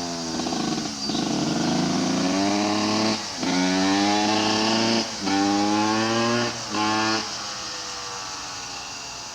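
2005 Yamaha YZ125 two-stroke engine, freshly rebuilt, revving up in repeated pulls, with brief cuts between them as it shifts up through the gears. Near the end it drops to a lower, steadier note and fades away.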